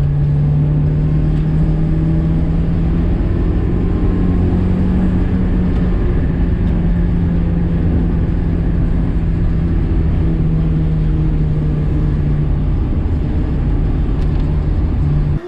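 Car engine running hard at nearly steady revs, with a low rumble of road noise beneath it; it cuts off abruptly at the end.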